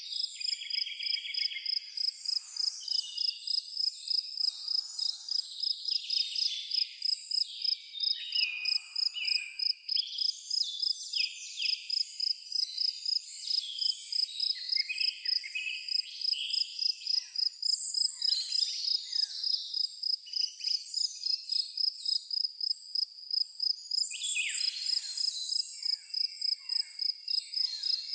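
Forest ambience: a cricket chirping in a high, steady, evenly pulsed rhythm of a few chirps a second, with several birds singing short whistles and trills over it.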